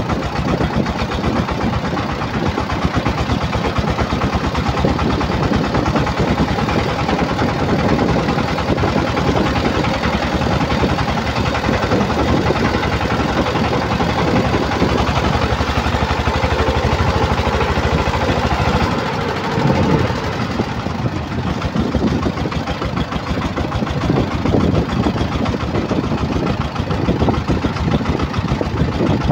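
Single-cylinder Changfa-type diesel engine of a bhutbhuti motor van running with its rapid, even knock. The level dips briefly and the running changes about two-thirds of the way through.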